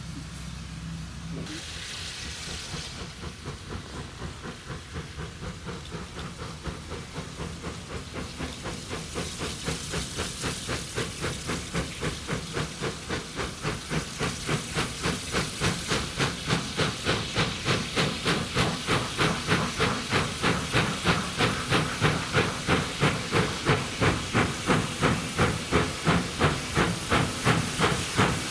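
Steam locomotive working, its exhaust beating in a steady rhythm that grows louder as it draws closer, with a brief burst of steam hiss about two seconds in.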